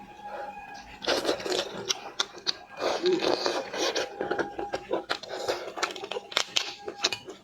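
Close-up eating sounds: shellfish shell being cracked and torn apart, with crunching and chewing, in a quick run of sharp cracks and short rustling bursts.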